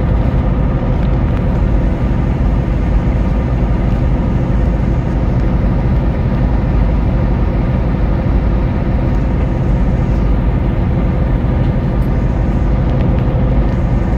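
Semi truck running down the road: a steady, loud low drone of engine and road noise.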